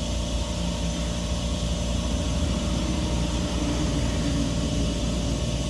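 Coin-operated air pump's compressor running, a steady low mechanical hum with a few constant tones, while a bicycle tyre is inflated.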